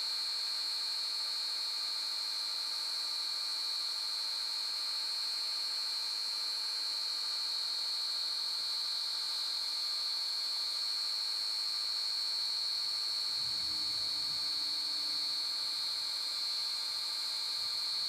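Wood lathe running at a steady speed, its motor giving a steady high-pitched whine.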